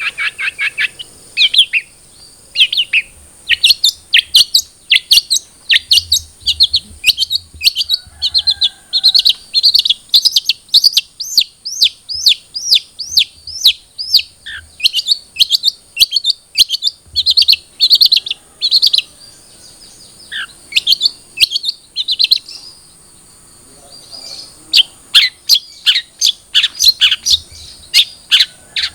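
Long-tailed shrike (cendet) singing in the rapid 'trotol' style: a long run of sharp, downward-sweeping chirps at about three a second, with brief pauses a little past the middle.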